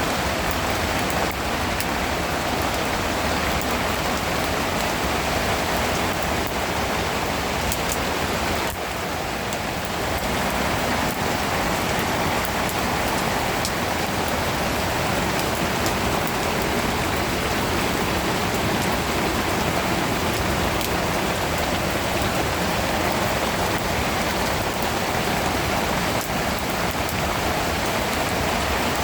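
Heavy rain falling steadily, a dense even hiss with scattered drops ticking, easing for a moment about nine seconds in.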